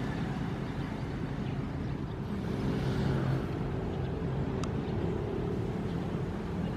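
Ocean waves: a steady low rumble of surf, with one wave washing in a little louder about halfway through.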